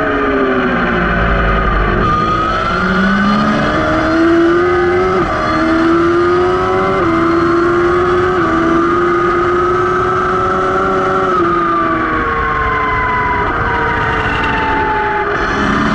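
Racing motorcycle engine at speed on a track, heard from beside the rear axle: its pitch climbs with short drops at gear changes about 2, 5 and 8 seconds in, then falls steadily from about 11 seconds in as the bike slows.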